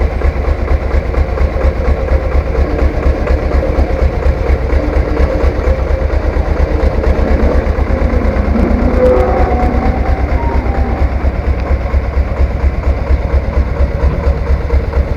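Three-wheeled farm tractor's single-cylinder diesel engine running steadily with a rapid, even beat.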